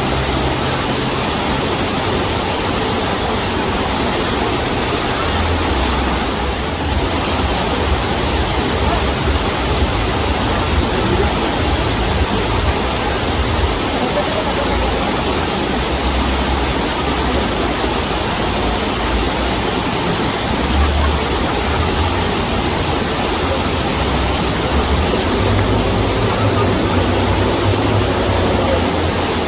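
Waterfall: a steady rush of falling water, with a low rumble underneath that swells and fades.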